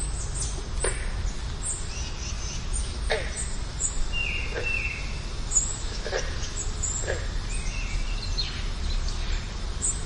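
Birds calling outdoors: short sharp calls every second or so, with a couple of brief whistled notes in the middle, over a steady low background rumble.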